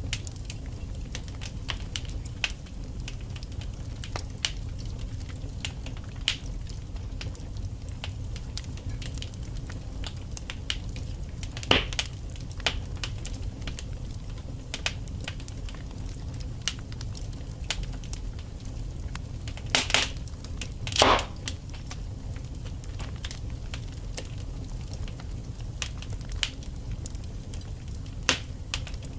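Burning logs in a fireplace crackling: a steady low rumble from the flames with frequent small pops. There are a few louder snaps, one near the middle, two close together about two-thirds through, and one near the end.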